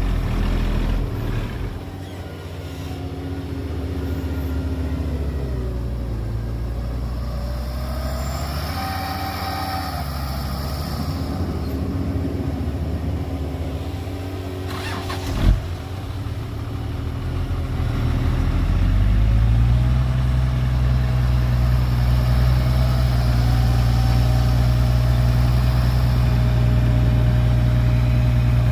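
Heavy diesel engine running and working, its pitch shifting up and down, with a single sharp knock about halfway through. It then revs up and holds a louder, steady run for the last third.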